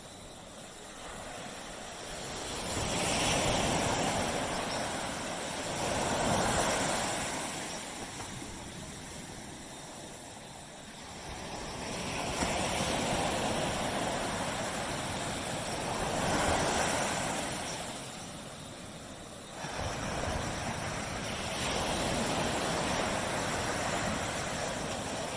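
Surf on a beach: waves breaking and washing in, the rushing noise swelling and fading every few seconds, with a sudden louder break about twenty seconds in.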